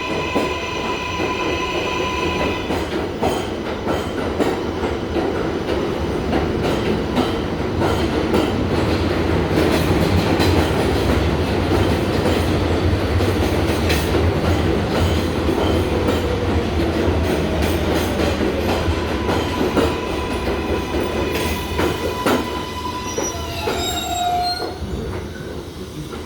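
New York City Subway R188 train cars running on the rails of the 7 line: a steady rumble of steel wheels with rail-joint clacks, at its loudest in the middle. High whining tones sound near the start, and brief gliding wheel squeals come near the end.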